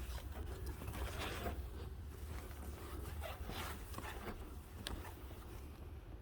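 Cloth rubbing and wiping over a plastic car headlight lens in short, irregular strokes, over a steady low rumble.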